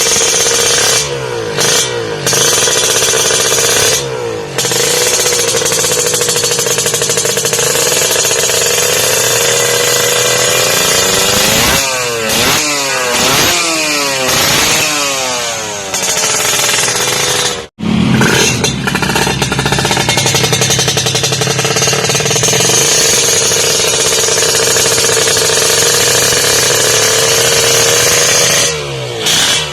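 Kawasaki Ninja 150 two-stroke single running through an aftermarket WRS exhaust, mostly at a steady throttle. Between about 12 and 16 seconds in it is revved up and down several times. It drops out for an instant near 18 seconds, then carries on steadily.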